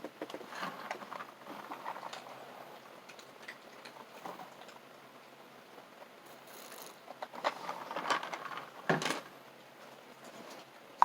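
Faint scattered clicks and rustles of small objects being handled, with a few sharper knocks about eight and nine seconds in.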